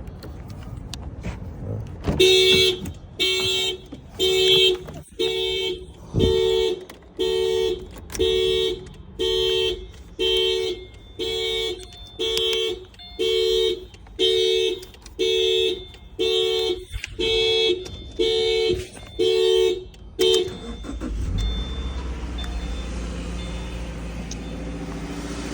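Car alarm going off, sounding the car's two-tone horn in about twenty evenly spaced honks, a little over one a second, set off by the car being opened without its key. The honking stops, and near the end a car engine starts and idles with a low hum.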